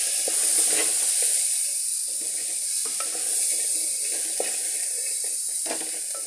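Corn kernels sizzling in a metal pot as they are lightly roasted, with a steady hiss, while a wooden spatula stirs and scrapes through them in irregular strokes, now and then knocking the side of the pot.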